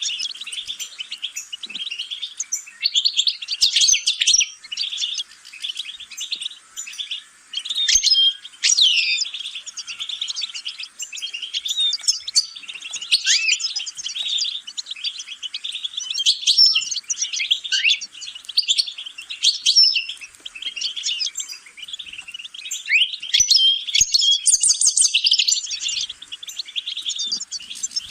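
A small finch singing a long, continuous twittering song of rapid chirps, slurred notes and trills, high-pitched, with only a couple of brief pauses.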